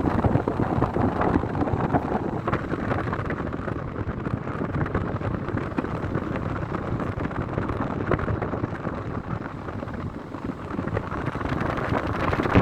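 Wind buffeting the microphone: a steady rushing rumble that rises and falls in gusts, easing a little near the end.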